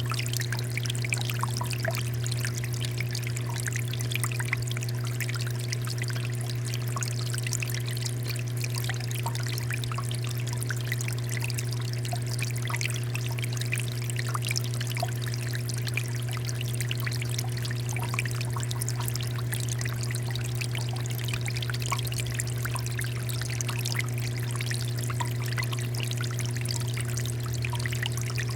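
Water fountain flowing and pouring steadily, with a constant low hum underneath.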